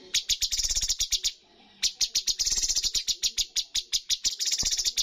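Cucak cungkok songbird singing rapid-fire 'tembakan' bursts: trains of sharp, chattering notes at about ten a second, breaking off briefly about a second and a half in, then resuming.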